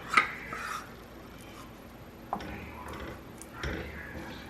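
Spoon stirring Parmesan into a pot of hot soup: a sharp click of the spoon against the pot near the start, then faint stirring with a few scattered light ticks.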